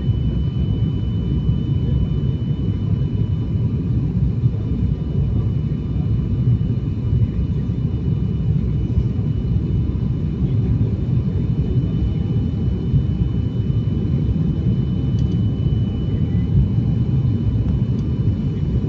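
Steady low rumble of an airliner heard from inside the cabin, engines and airflow, with a faint steady high whine running through it.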